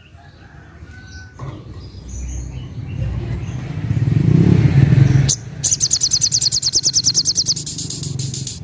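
A passing motor vehicle's low rumble builds over several seconds and cuts off suddenly about five seconds in. A sogok ontong then sings a fast, high trill of about ten notes a second for some two seconds, after a few faint high chirps earlier on.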